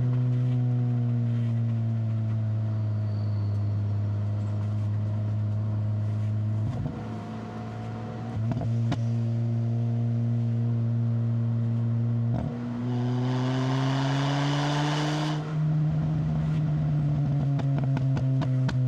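Proton Inspira's 4B11 four-cylinder engine breathing through a MAX Racing R5500 muffler, pulling steadily uphill under load. The exhaust note eases off briefly about a third of the way in, then the revs climb with a burst of hiss about two-thirds through before settling back to a steady drone.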